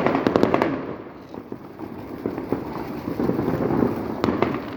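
A garden firework going off: a quick volley of sharp cracks and pops in the first second, then a hissing, crackling rush, with one more loud crack near the end.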